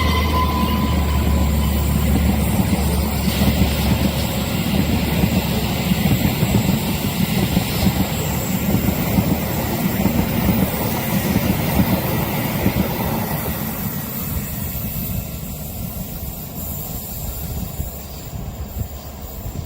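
Train passing, a steady rumble of wheels on rail that fades over the last several seconds as it moves away.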